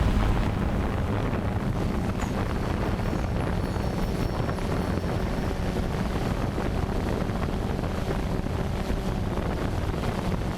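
Off-road 4x4 vehicle engine running, a steady low rumble, with wind buffeting the microphone.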